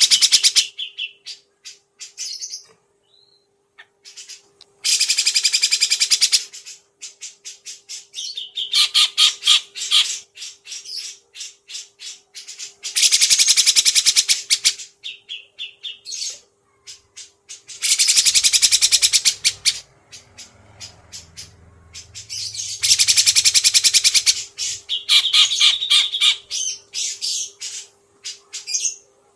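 Songbird singing in harsh, rapid rattling bursts of about a second each, repeated every few seconds, with short sharp notes scattered in between. A faint steady hum runs underneath.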